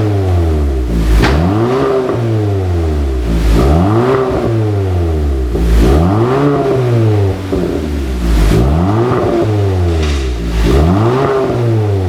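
Kia K5 1.6-litre turbo four-cylinder revved repeatedly through a dual valved aftermarket exhaust: five blips, each rising and falling back, about every two and a half seconds, with a brief hiss near the top of each.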